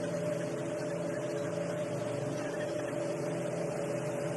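A tour boat's engine running steadily under way, heard on board as an even drone with a steady hum.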